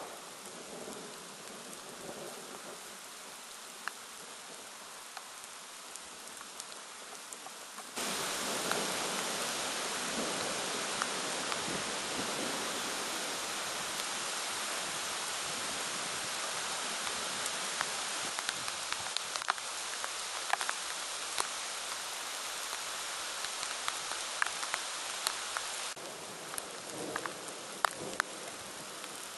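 Heavy thunderstorm downpour: a steady hiss of rain with scattered sharp ticks of drops striking close by. It jumps abruptly louder about eight seconds in and drops back a few seconds before the end.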